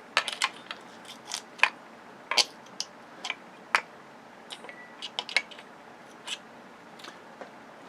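Irregular sharp clicks and clacks of hand tools and small metal and plastic parts being handled while a flat-screen TV is taken apart for scrap, some twenty in all, unevenly spaced.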